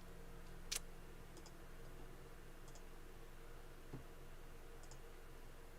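Faint computer mouse clicks, some in quick pairs, with one louder click about three-quarters of a second in and a soft knock near four seconds, over a steady low electrical hum.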